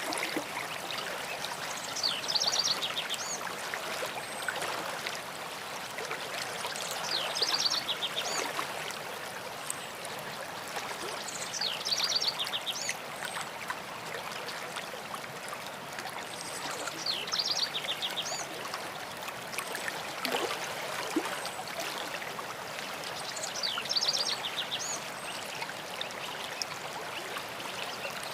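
Steady rushing of a running stream, with a songbird repeating the same short, rapid trilled song phrase about every five seconds, five times.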